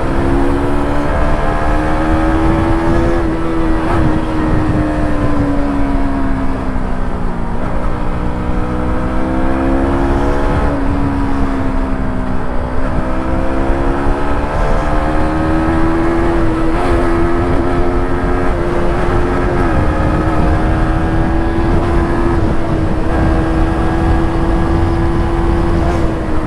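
KTM RC single-cylinder motorcycle engine running under way, its note sinking and climbing again several times as the throttle and gears change, over a steady low rumble.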